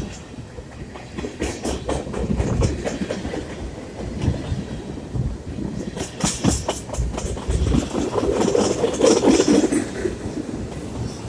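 Freight train cars rolling along the track, the wheels clicking over rail joints in an irregular clickety-clack. It grows louder a few seconds before the end.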